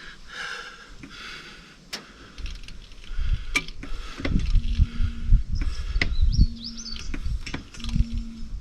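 A hand pump being worked in repeated strokes to top up an excavator's engine oil: low knocks on each stroke and a short squeak about every second and a half, starting about halfway through. A bird chirps briefly near the end.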